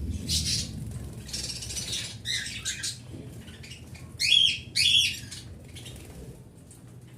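Small pet birds chirping and calling in a run of short chirps, with two louder calls about four and five seconds in.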